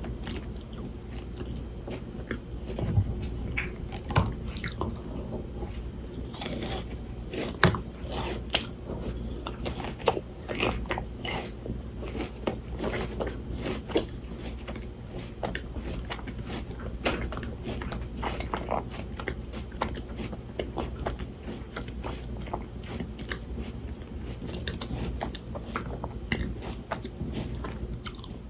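Close-up biting and chewing of frozen Shine Muscat grapes: crisp, icy crunches, with the loudest bites in the first half, then steady crunchy chewing.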